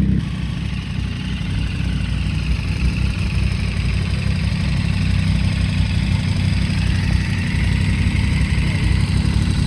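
A motorcycle engine idling steadily close by.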